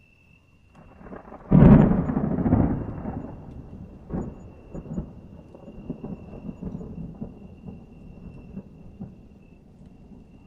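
A thunderclap: a low rumble builds, then a sudden loud crack about a second and a half in, followed by rolling rumble with scattered crackles that slowly fades away.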